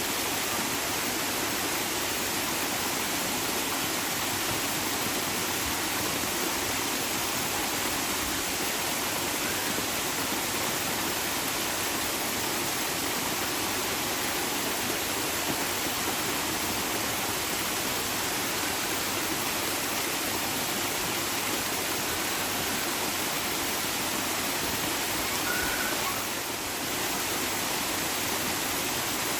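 Flowing water rushing steadily, an even hiss spread across low and high pitches, with a brief slight dip near the end.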